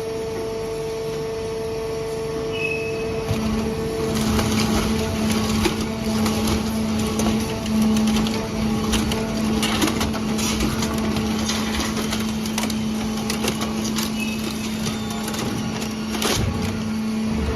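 Hydraulic power unit of a 160-ton horizontal metal baler running with a steady whine. About three and a half seconds in, the whine gives way to a lower steady hum with scattered knocks and scraping of metal as the cylinder moves, while the push plate retracts and the discharge door opens. Near the end the higher whine returns.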